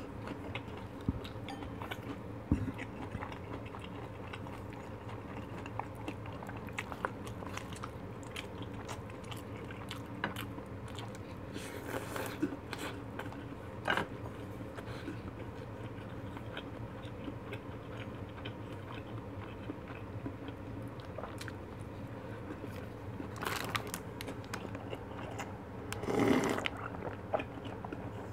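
Close-up eating sounds of fish cake and fried food being bitten and chewed, with some crunching and small clicks, over a steady low hum. There is a louder burst of handling and mouth noise near the end.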